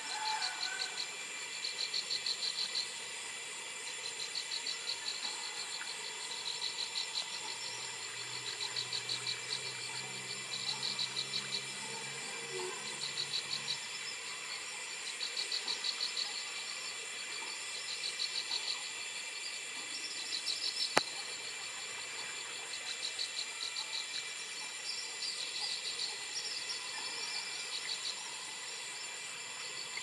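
A prinia singing: trains of rapid, buzzy ticking notes, each about a second long, repeated roughly every two seconds. A single sharp click about two-thirds of the way through.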